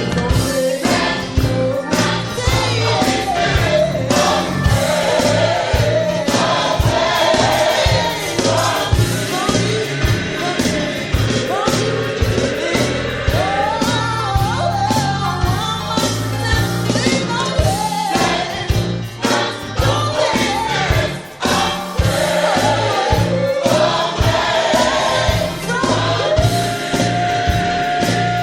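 Gospel worship song: a choir singing over a band with a steady beat.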